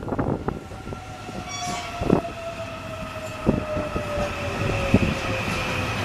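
Electric subway train's motors whining and falling slowly in pitch as the train brakes into the station, with occasional clacks of wheels over rail joints.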